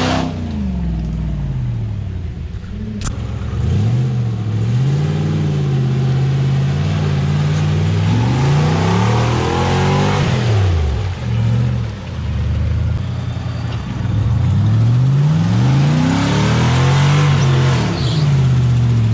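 Off-road vehicle engine revving, its pitch rising and falling again and again, with a rushing noise swelling twice, around the middle and near the end.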